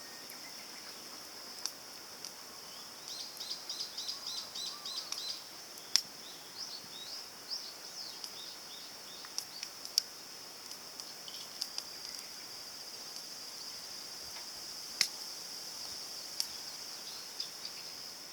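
Outdoor ambience: a steady high insect drone, with a bird calling a quick run of repeated chirps about three seconds in and a few more chirps after. A few sharp clicks stand out.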